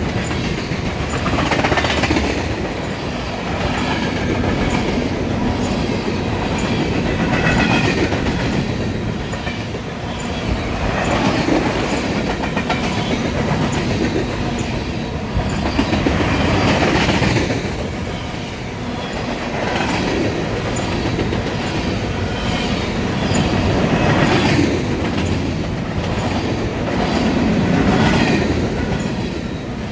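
Freight cars of a BNSF manifest train rolling past: a steady rumble with wheels clacking over rail joints, the loudness swelling and fading every few seconds.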